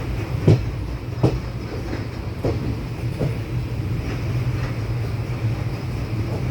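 Indian Railways express train rolling in at slow speed: a steady low rumble with the wheels knocking over rail joints about once a second.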